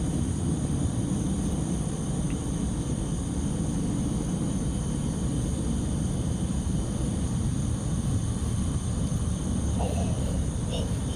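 A steady low rumble runs under a constant high, shrill insect chorus.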